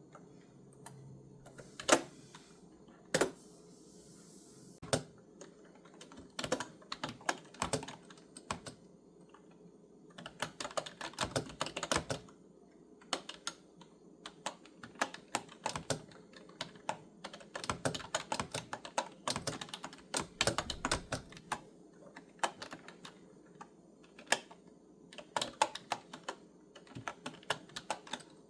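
Typing on a clicky computer keyboard: a few separate keystrokes at first, then irregular runs of fast typing.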